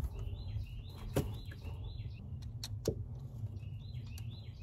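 A bird singing a repeated phrase of short falling notes, twice, over a steady low hum, with a couple of sharp clicks from hand work, about a second in and near the three-second mark.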